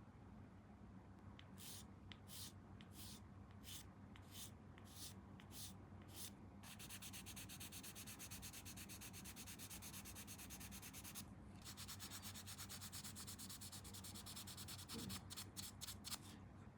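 Hand sanding of a small plastic model kit part: a few separate strokes, then about eight seconds of quick back-and-forth strokes with a short break, then a few more strokes near the end. Faint and close, over a low steady hum.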